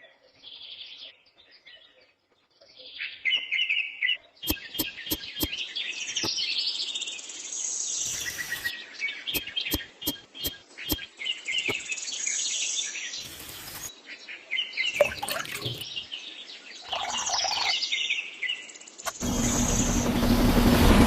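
Birds chirping, many short high calls, with a few sharp clicks. Near the end a loud, steady motor starts running.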